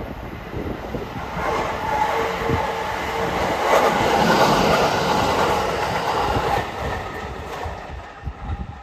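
Kintetsu 1233 series electric train running through a station without stopping. The rush of the train builds to its loudest about four seconds in and then fades, over a steady whine.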